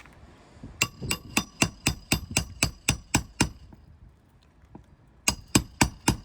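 Hand hammer driving roofing nails, fast ringing strikes about four a second: a run of about a dozen, a pause, then another run near the end.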